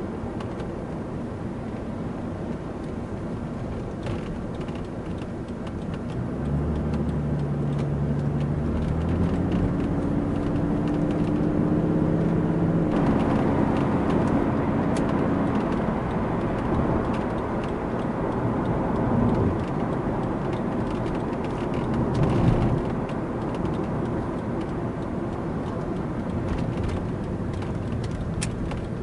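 Mercedes-Benz 300 SDL Turbo's OM603 straight-six turbodiesel heard from inside the cabin, pulling away and accelerating. The engine note gets louder from about six seconds in and climbs in pitch in steps, over steady road and tyre noise. There is a brief knock about two-thirds of the way through.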